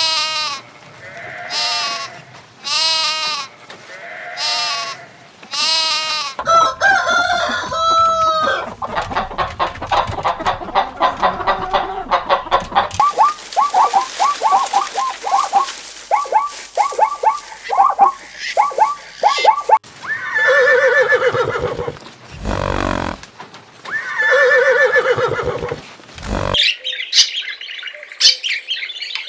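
A run of different animal calls, one after another: four long calls in the first six seconds, then a stretch of fast repeated calls, two more long calls, and high bird chirps near the end.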